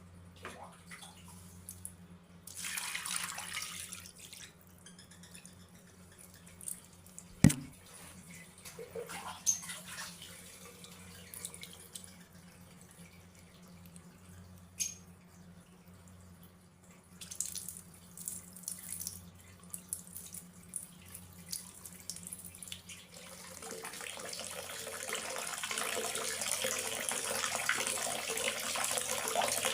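Water dripping and splashing in scattered drops, with one sharp knock a little over seven seconds in; in the last quarter it builds into a steady running, pouring sound.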